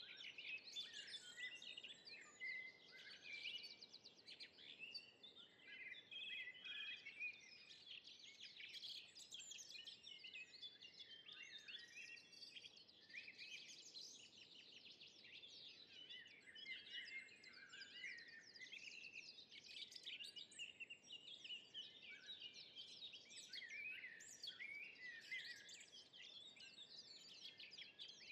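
Faint forest ambience with several songbirds singing and chirping at once, a dense overlapping chorus of quick chirps and trills that never lets up.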